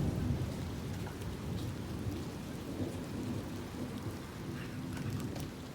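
Thunder rumbling low and fading over the first second or two, with steady rain falling throughout.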